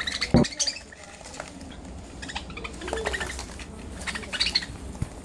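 Budgerigar giving bursts of short, sharp chirps and clicks as it spars with a thumb. A single low thump comes about half a second in and is the loudest sound.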